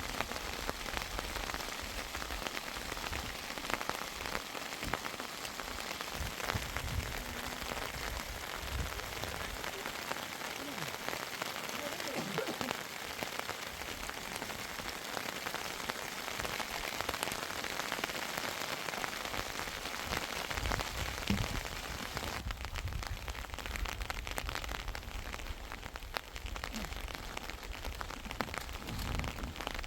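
Steady rain falling, with a dense patter of individual drops hitting the surface.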